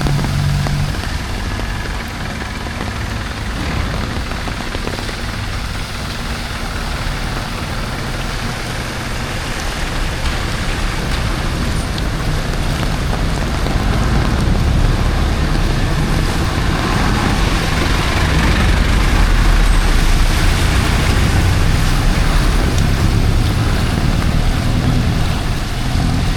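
City road traffic passing on a wet avenue: low engine rumble of cars and trucks over a steady hiss of heavy rain, swelling to its loudest about two-thirds of the way through as vehicles go by close.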